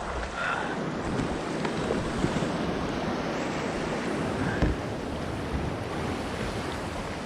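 Rushing whitewater on a kayak run, with wind buffeting the camera's microphone, and one brief knock a little past halfway.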